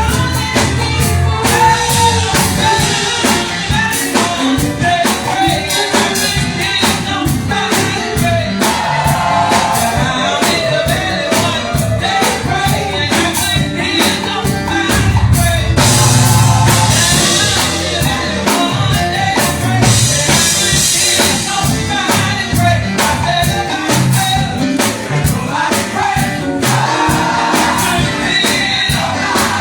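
A live gospel song: a singer's voice over a band with a drum kit keeping a steady beat.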